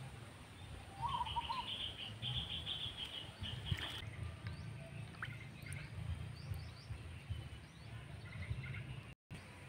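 Small birds chirping: a rapid run of high chirps lasting about three seconds, then scattered faint chirps, over a steady low rumble. A brief dropout near the end.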